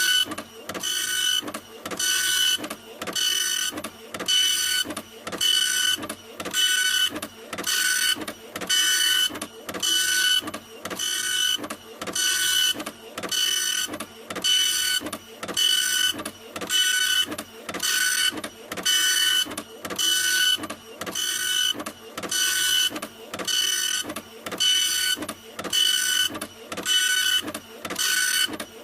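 Printer running continuously, its print mechanism making an even, repeating whirring stroke with a whine about every two-thirds of a second.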